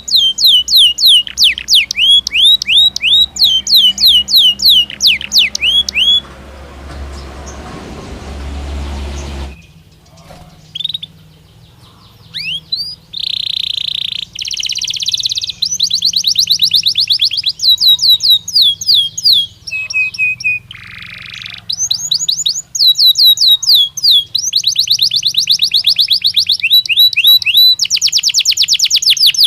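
Belgian canary singing loudly: rapid series of downward-sweeping whistled notes, broken about a quarter of the way in by a few seconds of hissing noise, then resuming with buzzy rolls and fast trills.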